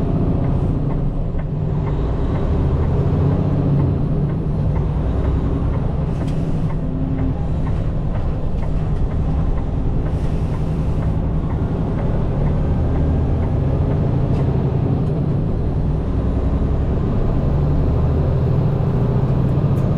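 Peterbilt 589 dump truck's diesel engine running steadily with a low drone.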